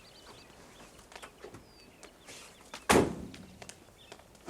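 A car door slamming shut with a heavy thunk about three seconds in, after a few light clicks and knocks.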